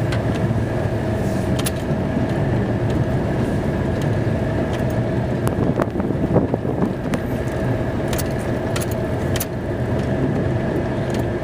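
Plow truck's engine running steadily, heard from inside the cab, with a steady whine and scattered clicks and rattles.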